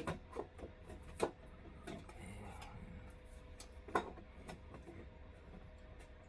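Scattered light clicks and knocks of parts being handled during reassembly of an RV air-conditioner unit, with sharper knocks about a second in and near four seconds, over a faint steady low hum.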